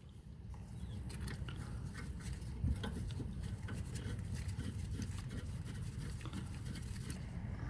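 Rear brake caliper bolt being run in, a quick irregular run of small metal clicks over a steady low hum.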